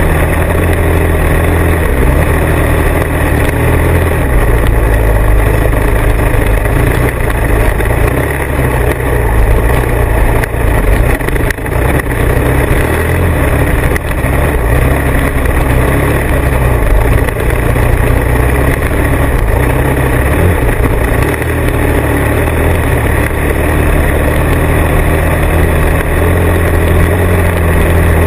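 Motorcycle engine running under way, a loud, steady low drone whose pitch shifts a few times as the engine speed changes.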